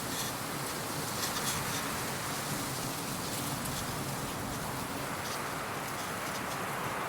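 Steady nature ambience: a soft, even outdoor rush with faint scattered light ticks.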